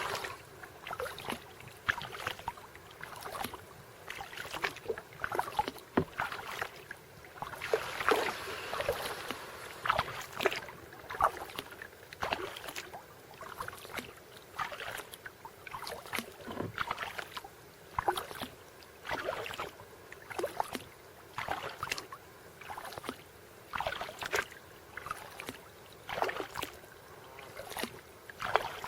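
Kayak paddle strokes dipping and splashing in lake water, a splash every second or two with water dripping between them.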